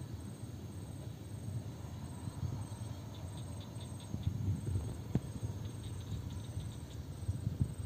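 Insects chirping, a high pulsing call repeating about twice a second, over a steady low rumble.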